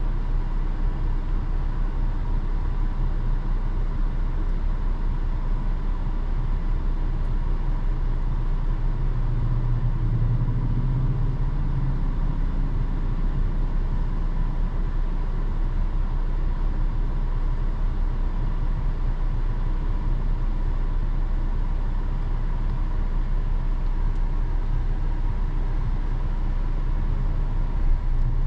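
Road and engine noise inside a moving car's cabin: a steady low rumble, a little stronger about ten seconds in.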